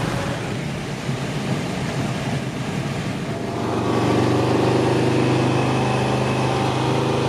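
Car engine running, with a steady low engine note settling in from a bit past halfway.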